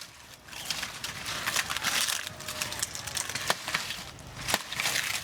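Machete chopping and crunching through plant material, a dense crackle and rustle with a couple of sharp strikes about three and a half and four and a half seconds in.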